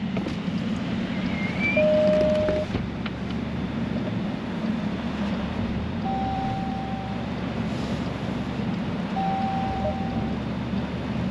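A vehicle engine runs steadily, with a low rumble under a haze of wind noise. Three brief steady tones of about a second each sound over it: a lower one about two seconds in, then two higher ones later on.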